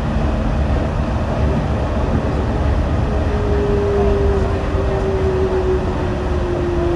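Yurikamome rubber-tyred automated guideway train running, with a steady low rumble. About three seconds in, a motor whine sets in and slowly falls in pitch.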